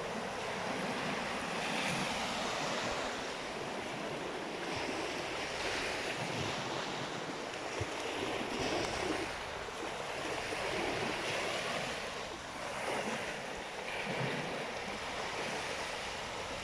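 Sea waves breaking and washing onto the shore, swelling and easing every few seconds, with wind buffeting the microphone.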